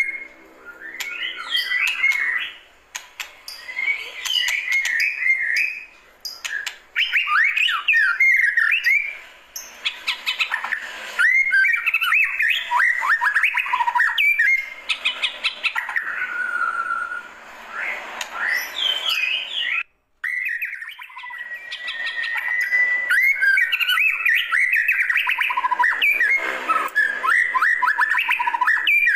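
White-rumped shama (murai batu) singing: a long run of rapid, varied whistled phrases and chattering notes, broken by a brief silence about two-thirds of the way through, followed by a held whistle.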